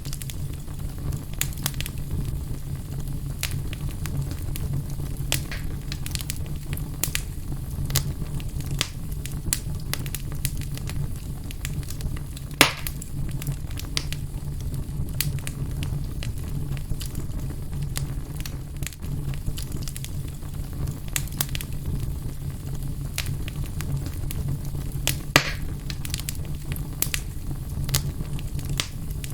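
Fire burning in a fireplace: a steady low rumble of flames with scattered sharp crackles throughout. There are two louder pops, about halfway through and near the end.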